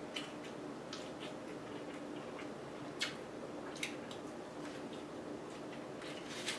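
Faint mouth sounds of a man chewing a bite of pizza: scattered soft clicks and smacks, the sharpest about three seconds in, over a steady low hum.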